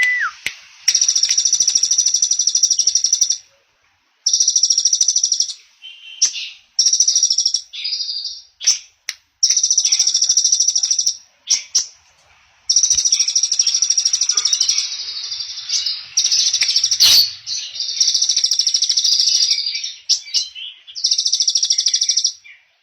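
Small songbird singing long, very fast, high-pitched trills in repeated bursts of one to three seconds, with short breaks and a few shorter chirps between them.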